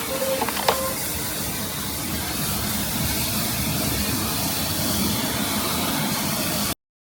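Steady hiss of a pressure-washer water spray rinsing a car wheel, cut off abruptly near the end.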